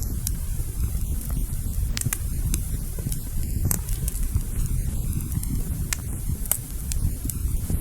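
Wood fire burning in a fireplace: a steady low rumble of flames with scattered sharp crackles and pops, about one every second or so.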